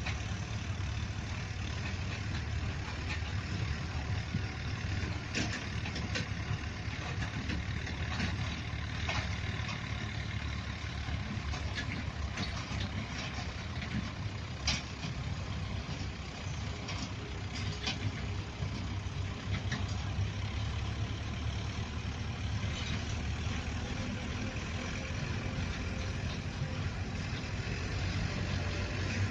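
Tractor engine running steadily, with a few short clicks and knocks scattered through.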